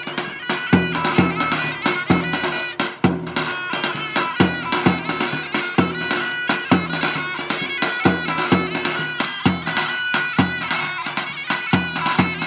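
Turkish folk dance music: a reedy wind melody over a drum beating about twice a second.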